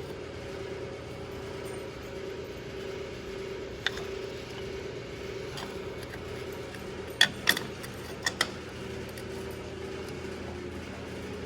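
A steady, even hum from a running machine in the garage, with a few sharp clicks of tools or metal parts being handled: one about four seconds in, then two quick pairs near the end.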